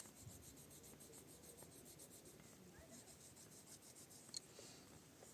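Near silence: faint scratchy background noise, with one small click about four seconds in.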